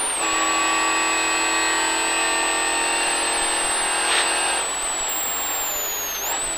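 MG ZR rally car's engine heard from inside the cabin, holding steady high revs down a straight after a brief dip right at the start, then easing off about two thirds of the way through as the driver lifts. A thin high whine runs along with it and falls in pitch near the end as the car slows.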